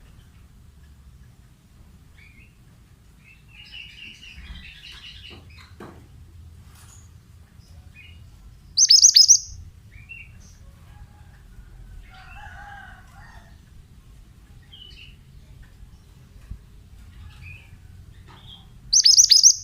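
Pied bushchat calling: two loud, shrill bursts of rapid chirps about ten seconds apart, with fainter scattered chirps and twittering in between.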